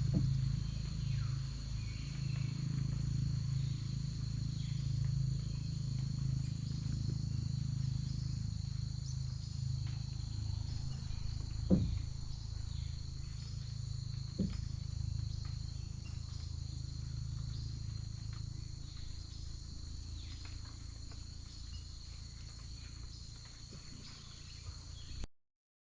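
Steady high buzzing chorus of rainforest insects over a low rumble that slowly fades. Two short knocks come about halfway through. The sound cuts off suddenly near the end.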